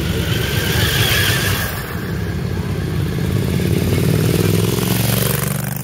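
A motorcycle engine running with a dense, rapid low pulse, growing louder about four seconds in and easing off near the end.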